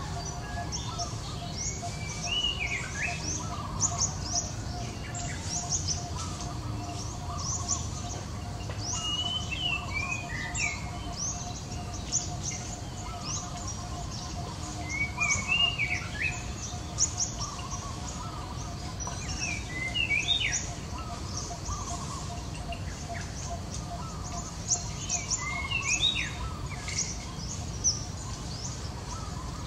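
Wild birds calling: rapid short high chirps throughout, with a louder chirping phrase every five or six seconds.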